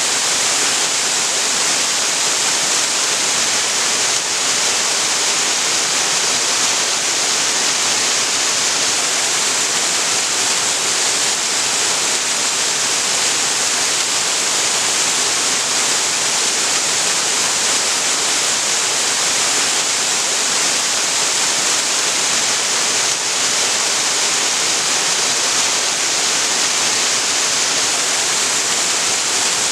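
Waterfall pouring steadily into a creek pool: a constant, even rush of falling water, strongest in the hiss range.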